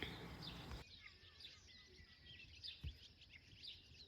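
Faint birds chirping outdoors, many short quick chirps repeating throughout, with one soft low thump near the three-second mark.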